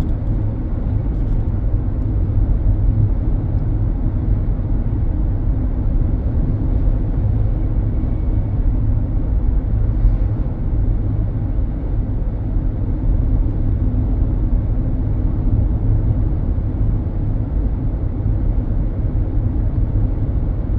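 Steady low road and engine rumble of a moving car, heard inside the cabin with the windows up.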